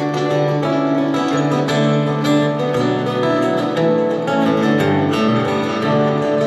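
Acoustic guitar strummed and picked in a song's instrumental intro, with a steady rhythm of chords and no singing.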